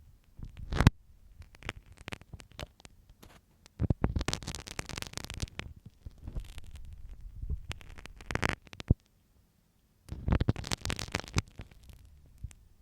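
Close-miked scratching, rubbing and clicking of a sewing pin used as an ASMR ear-cleaning tool in a microphone's ear. It comes in uneven bursts of one to two seconds, with a short silence about nine seconds in.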